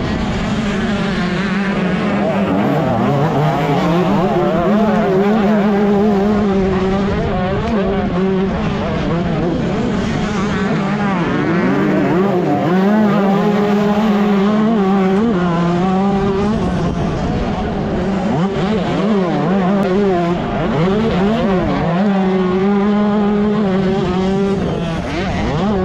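125cc two-stroke motocross bike engine running hard, its pitch rising and falling over and over as it revs up and drops back through the gears.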